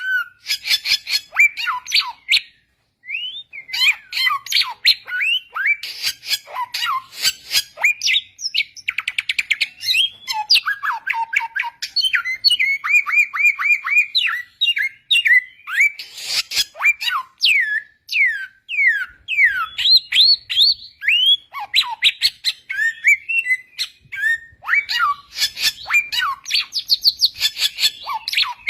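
Samyong bird singing in the wild: a rapid, varied stream of clear whistled notes that slide up and down, mixed with fast chattering trills and harsher squawky notes, with hardly a pause.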